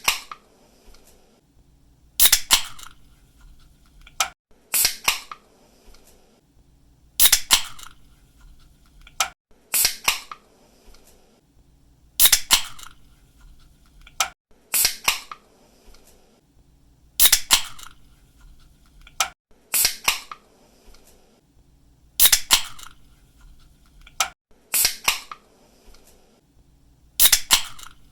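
Ring-pull of an aluminium drink can opened again and again, about every two and a half seconds: a small click as the tab lifts, then a sharp snap of the tab breaking the seal and a short hiss of escaping gas.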